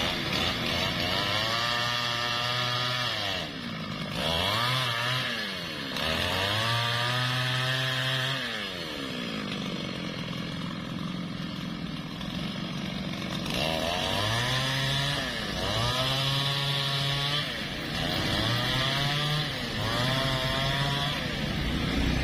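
Newwest 628 two-stroke chainsaw revving in repeated bursts of a second or two as it cuts angsana wood, each time climbing to full speed and dropping back. About seven bursts, with a longer spell at idle in the middle.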